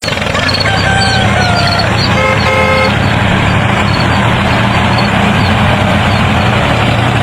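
Engine running steadily, with a single short horn toot about two seconds in.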